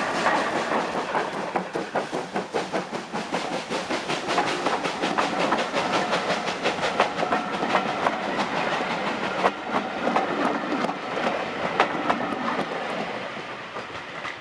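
Heritage train running past, its wheels clicking rapidly and rhythmically over the rail joints; the sound fades away near the end.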